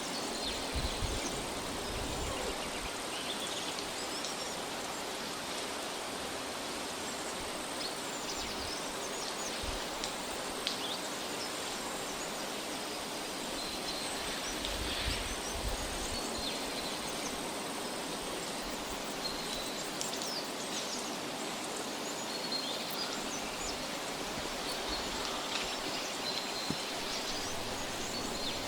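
Outdoor forest ambience: a steady even hiss with faint, scattered high bird chirps and a thin steady high-pitched tone.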